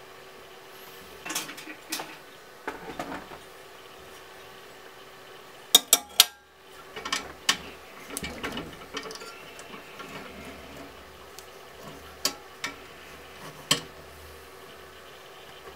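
Small metal and plastic parts and tools being handled during laptop disassembly: scattered light clicks and taps, with a quick cluster of sharp clicks about six seconds in and some rustling handling after it.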